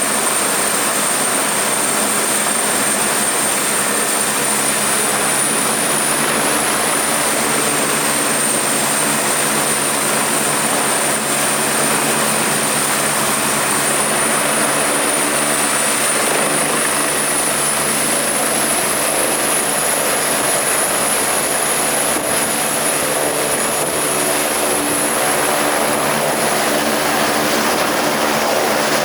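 Eurocopter EC145 helicopter running with its twin Turbomeca Arriel 1E2 turboshafts and main rotor turning: a loud, steady turbine whine over rotor noise. The whine rises slightly in pitch about seven seconds in and again between sixteen and twenty seconds.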